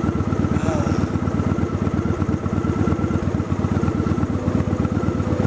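Honda Shadow 750 V-twin with aftermarket Cobra pipes running steadily under way, its exhaust pulses coming in a fast, even beat.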